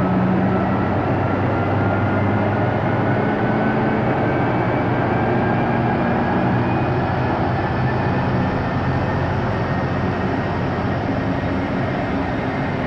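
Diesel train running close by: a steady engine drone and rumble with a whine that slowly rises in pitch as it gathers speed.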